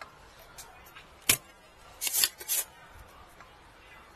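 Sharp clicks and a short clatter of small hand tools against a refrigerator power-supply circuit board while its optocoupler is being removed: one click about a second in, then a quick cluster of clicks about two seconds in.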